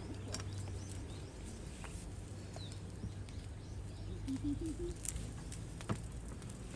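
Outdoor ambience: a steady low rumble with a few brief bird chirps and a short run of low calls partway through, and two sharp clicks near the end.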